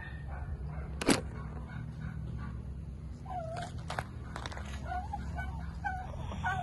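Short animal calls, one about halfway through and several in quick succession near the end, over a steady low hum, with one sharp knock about a second in.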